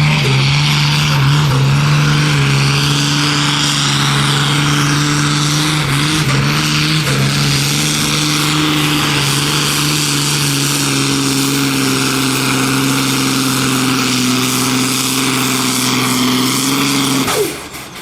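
Competition pulling tractor's engine running hard at high, steady revs through a pull, its pitch wavering briefly about a third of the way in. It cuts off suddenly near the end.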